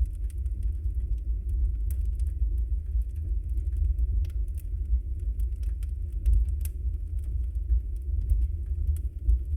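Wood fire burning in a fireplace: scattered sharp crackles and pops at an irregular pace over a steady low rumble.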